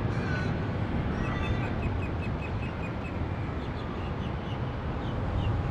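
A bird calling a quick run of short, evenly spaced high chirps, then a few higher notes near the end, over a steady low rumble.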